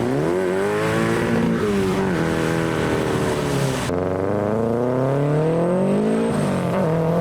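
A car's engine accelerating hard as it pulls away. Its pitch climbs, then drops back at each gear change, three times.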